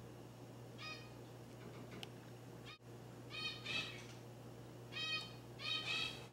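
A bird chirping in short, high calls, several in all, some coming in pairs, over a steady low electrical hum.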